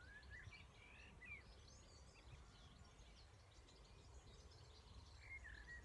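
Faint birdsong: scattered chirps and short whistled phrases from birds, over a low steady rumble.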